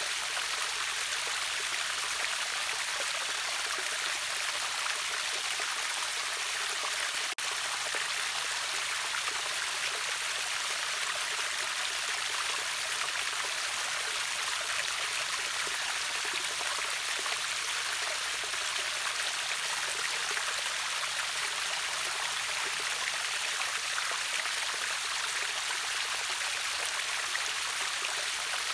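River waterfall: water rushing steadily in an even hiss, with one momentary break about seven seconds in.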